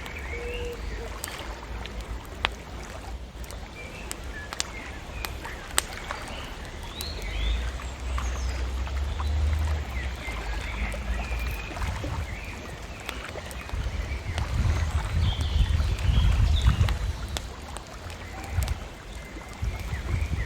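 Bonfire crackling with scattered sharp pops, and birds chirping on and off, over a low rumble that swells in the middle and again later.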